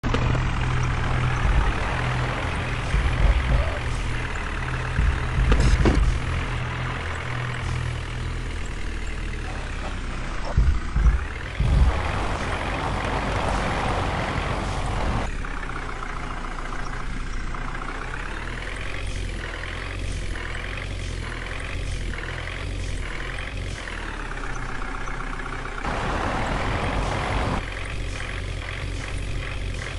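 Tractor engine running with a deep, steady rumble and its pitch wavering up and down, with a few louder knocks.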